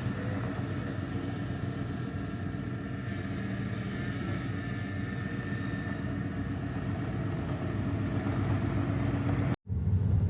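1997 Ford F250 HD pickup driving on a test drive, its engine and drivetrain giving a steady low hum heard from inside the cab. The sound breaks off briefly near the end.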